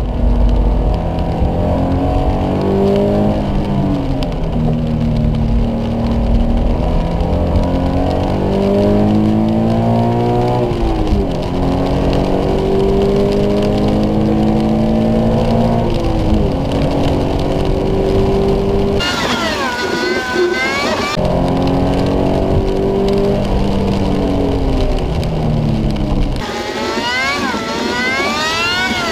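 Subaru BRZ's 2.0-litre flat-four engine heard from inside the cabin under hard driving: the note climbs in pitch through each gear and drops at each shift or lift, every few seconds. About two-thirds through and again near the end the sound briefly turns thinner, with a higher whine gliding up and down.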